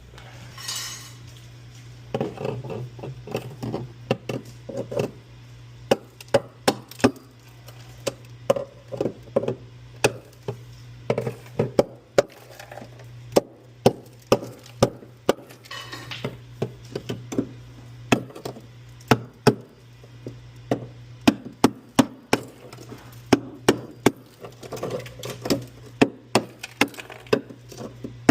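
Hard objects knocking and clacking irregularly, many sharp knocks, with a steady low hum underneath, as hands work inside a refrigerator.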